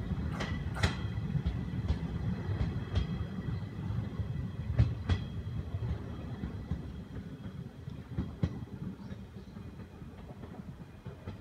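JR 105 series electric train pulling away, its low running rumble fading as it goes. Its wheels click sharply over the rail joints several times, over a faint steady whine.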